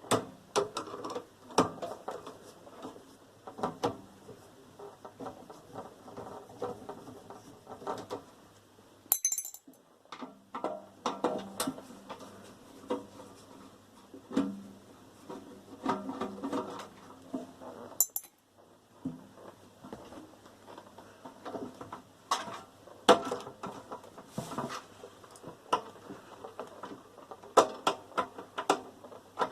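Metal parts of a microwave clinking, knocking and rattling as it is taken apart by hand: irregular sharp knocks and clinks with brief ringing.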